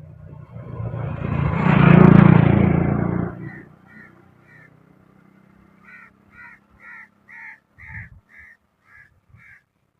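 A vehicle passes close by, rising and fading over about three seconds. Then crows caw repeatedly, about two calls a second, growing louder toward the end.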